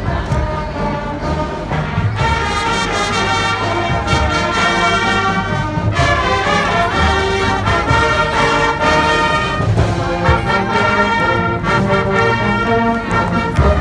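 Marching band playing: brass melody with drums beating underneath.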